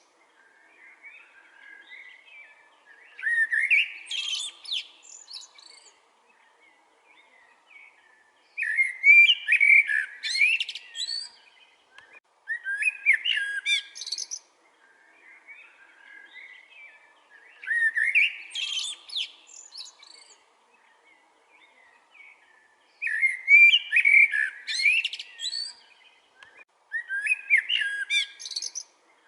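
A songbird singing loud, whistled phrases of about two seconds each, repeated every four to five seconds, with softer chirps in between.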